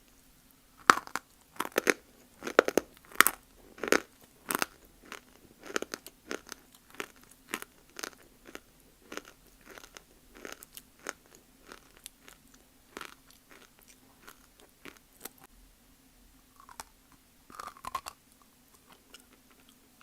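Crunchy bites and chewing of dry multani mitti (fuller's earth clay). Sharp crunches come thick in the first few seconds, then give way to slower, softer chewing, with another crunchy bite near the end.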